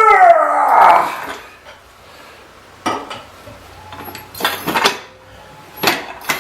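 Metal tools and parts clinking and clanking during brake work on a car: several separate sharp knocks a second or so apart. It opens with a loud, wavering, pitched squeal that dies away within the first second.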